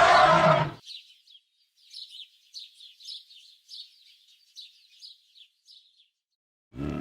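A loud pitched animal call cuts off under a second in. A small bird follows, chirping in short high notes about three a second for about five seconds. Near the end a deep animal call starts.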